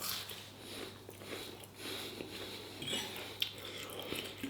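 A person chewing a mouthful of food close to the microphone: soft, irregular wet chewing with a few small clicks.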